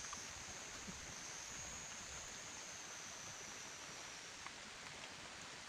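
Quiet steady rainforest ambience: an even hiss like running water or rain, with a thin high steady whine over it that fades out about four and a half seconds in.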